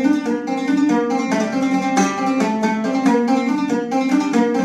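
Instrumental music, without singing: a plucked string instrument playing a quick run of notes.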